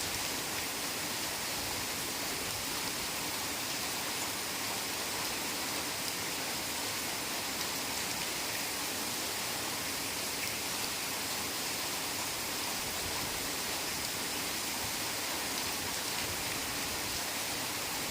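Heavy rain falling steadily, an even continuous hiss of many drops with no distinct single impacts.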